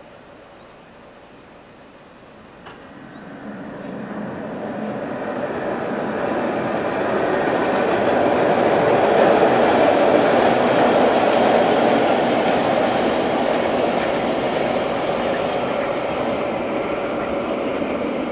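Rhaetian Railway freight train, hauled by a Ge 4/4 III electric locomotive, running across a stone-arch viaduct: the steady noise of wheels on rail grows from about three seconds in, is loudest around the middle and slowly fades as the wagons pass.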